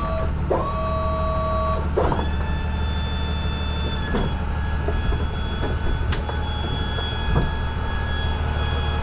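Box truck engine running with a steady low rumble. High steady tones sit over it, bending upward and then holding, about half a second and two seconds in.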